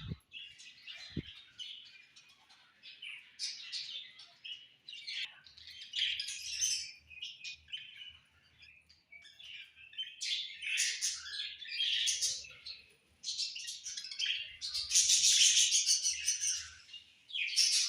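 Budgerigars (budgies) chirping and warbling together, a dense and irregular chatter that is loudest about three quarters of the way through.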